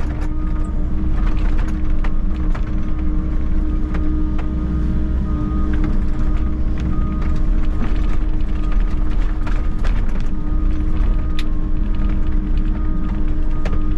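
Volvo EC60E excavator's diesel engine running steadily while it works, with frequent sharp clicks and knocks throughout.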